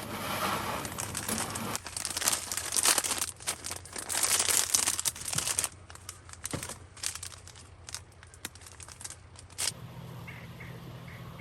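Crinkling and rustling of handled material with many scattered clicks, busiest in the first half and thinning out later.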